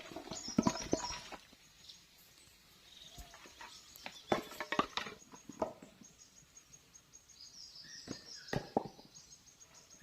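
Irregular knocks and clicks, clustered near the start, in the middle and again near the end, with short high bird chirps.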